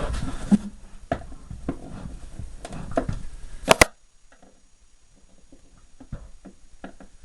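Mini fridge parts being handled and pried apart: scattered clicks and knocks with a low rumble of handling noise. The loudest is a sharp double knock a little before halfway, after which only faint, sparse ticks remain.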